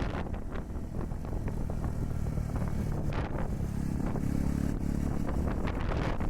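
Honda Super Cub 110's small single-cylinder four-stroke engine running under way, its pitch rising as it revs up about four seconds in, with wind buffeting the microphone and a gust about three seconds in.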